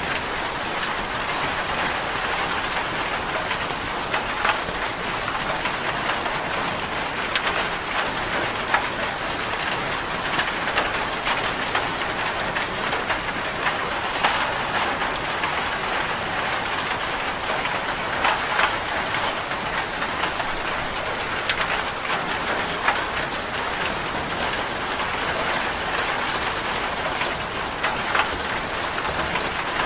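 Steady rain falling, with scattered sharp ticks through it.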